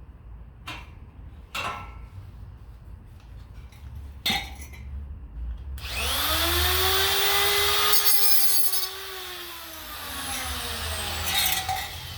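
A few metal clanks, then an electric grinder spins up with a rising whine, runs steadily with a brief burst of grinding, and winds down with a falling whine as the motor coasts to a stop.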